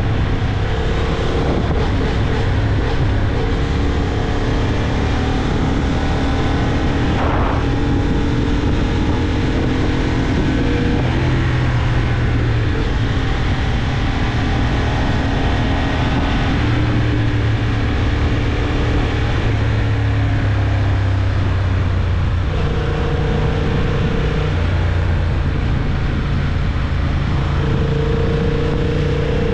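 Honda CB750 Hornet's parallel-twin engine running under way at a steady speed, with wind rushing over the microphone. The engine note holds steady and shifts to a new pitch a few times as the revs change.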